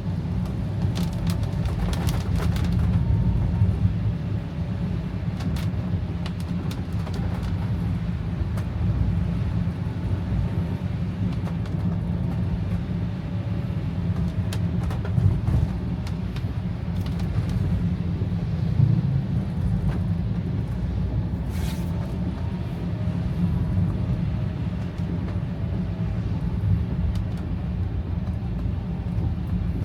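Steady low rumble of a car driving in heavy rain, heard from inside the cabin, with scattered ticks of raindrops on the glass.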